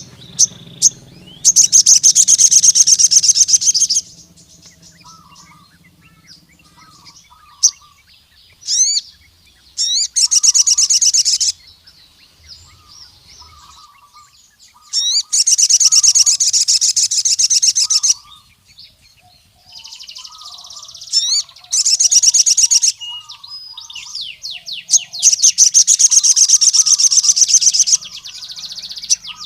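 Male sogon (ruby-cheeked sunbird) singing in five loud bursts of rapid, high twittering song, each lasting one to three seconds. Between the bursts come short sharp single chirps and fainter low notes.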